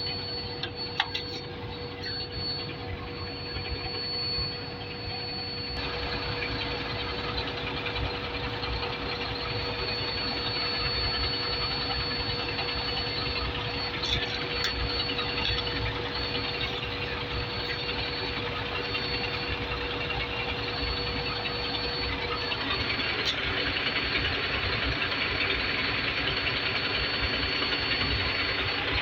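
Big truck's engine idling steadily, a continuous mechanical running sound that steps up in level about six seconds in.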